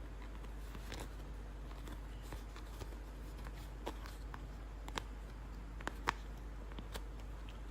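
Faint handling sounds of plastic toy packaging and action figures: scattered sharp clicks and light rustles, a few louder clicks about five and six seconds in, over a steady low hum.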